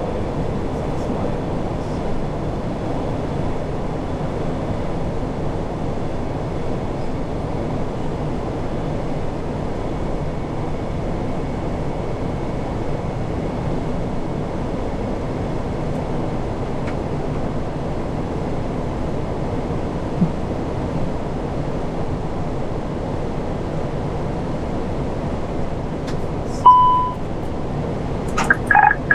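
Steady rushing flight-deck noise of an Airbus A340-600 in flight on approach. Near the end there is one short electronic beep, then a rapid series of pulsed cockpit beeps.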